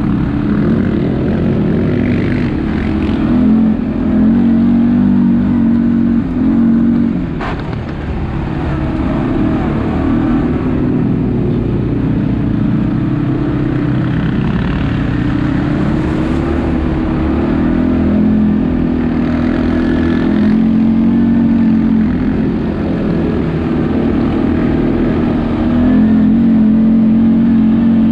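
ATV engine running as it rides, its pitch rising and falling with the throttle, with a single sharp knock about seven seconds in.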